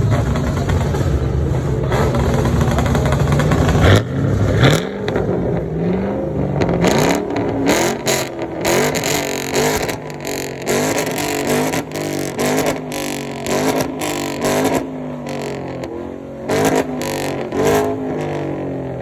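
Car engine running loudly at a steady speed, then a sharp crack about four seconds in, after which it is revved over and over in quick rising blips with sharp cracks between them.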